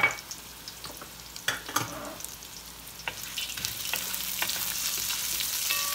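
Sliced ginger and garlic sizzling in olive oil in a stainless steel pan as dried red chilies go in and are stirred with a wooden spatula, with a few short knocks against the pan. The sizzle grows louder over the second half.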